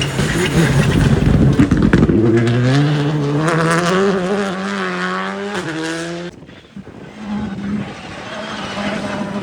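Rally car passing at speed, loud at first, then its engine note climbing steadily in pitch as it accelerates away. The sound cuts off suddenly about six seconds in, and a fainter engine then holds a steady note.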